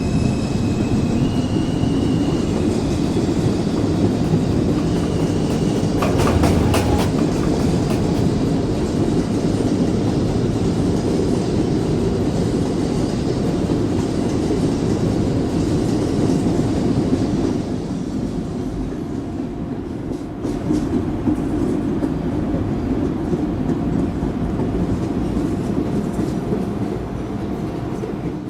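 Subway train running between stations: a steady low rumble of wheels on the rails, with a short burst of clatter about six seconds in. It eases a little quieter about two-thirds of the way through.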